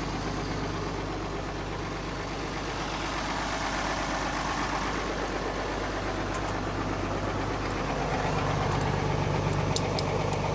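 Tractor engine idling steadily. About eight seconds in it gets louder and fuller, with a few light clicks near the end.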